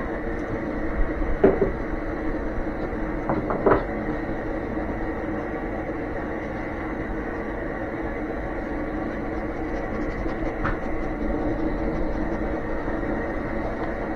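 A machine running steadily with a constant whine, with a few knocks, two of them in the first four seconds.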